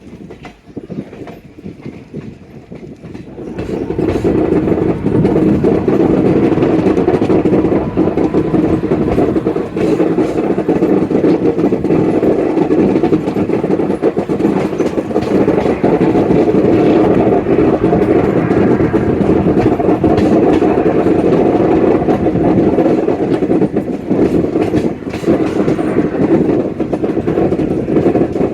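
Passenger train running on the rails, a steady rumble of wheels on track with many sharp clicks from the rail joints. It turns much louder about three and a half seconds in.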